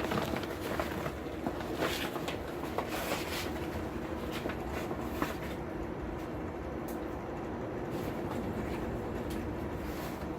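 Hardwood lump charcoal burning in a forge under forced air: a steady rushing drone with scattered crackles and light clicks from the fire.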